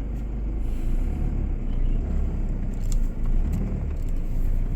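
A 4x4 SUV moving slowly over a muddy dirt road: a steady low engine and tyre rumble, with a few faint light knocks.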